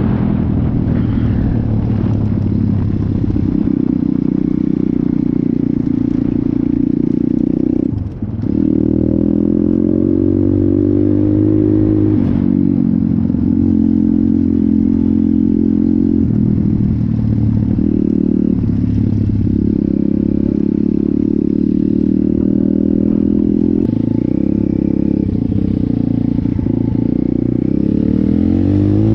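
170cc single-cylinder pit bike engine running as the bike is ridden, its pitch rising and falling repeatedly with the throttle. There is a short drop in the engine note about eight seconds in.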